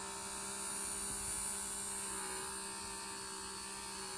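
Handheld pore-vacuum's small suction pump motor running with a steady hum, switched up to a higher suction setting.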